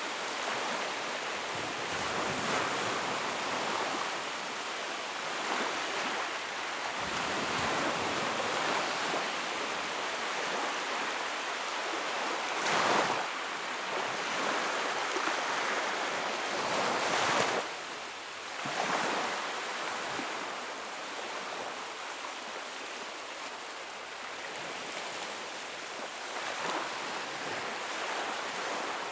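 Sea waves surging and washing in, a steady rush of surf that swells into louder breaking waves, most strongly about halfway through.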